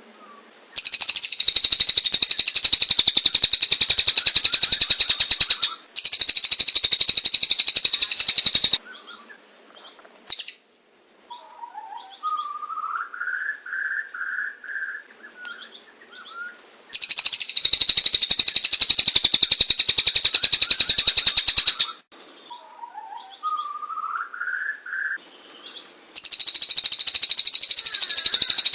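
Recorded songbird tutor track of cililin and canary song: long, very rapid, high trills about five seconds each, starting and stopping abruptly, alternating with softer, lower warbled phrases in between.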